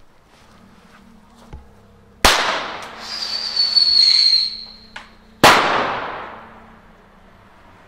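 Blank pistol firing a 15 mm whistle-explosion pyro cartridge: a sharp launch shot, then a high steady whistle for about a second as the charge flies, then a loud bang that echoes away.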